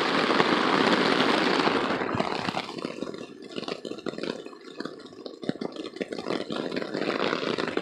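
Heavy rain falling on a hammock tarp overhead. It makes a dense, even hiss for about two seconds, then eases into separate drop hits over a quieter hiss.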